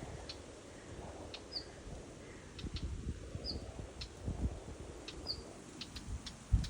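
A small bird repeating a single short, high chirp about every two seconds, mixed with scattered sharp ticks and a low rumbling background.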